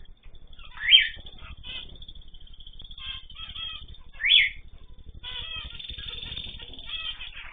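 Pet birds chirping and calling, with two loud, sharp calls, about a second in and again about four seconds in, and denser overlapping chatter from about five seconds in.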